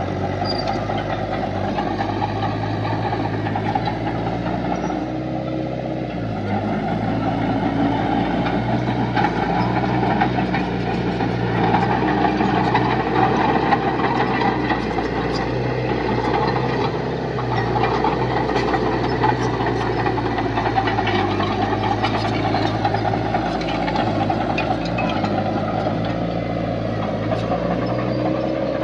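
Diesel engine of heavy earthmoving machinery running steadily, with scattered light clanks and clicks over it.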